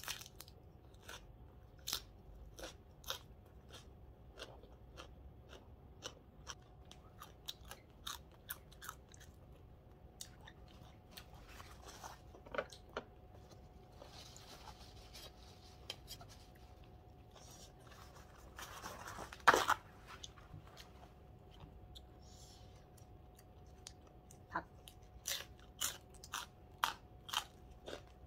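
Close-up chewing and crisp crunching of papaya salad wrapped in raw green leaves, with sharp crunches coming in quick runs near the end. One much louder handling noise about two-thirds of the way through.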